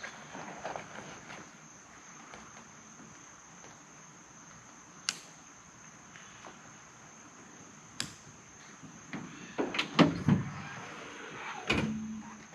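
Insects, such as crickets, chirring steadily at one high pitch, with two sharp clicks in the middle and a cluster of louder knocks and clunks in the last few seconds, like a door or hatch being handled.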